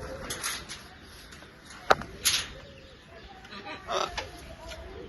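A bird gives a few short calls, with a sharp click about two seconds in and a brief call near four seconds.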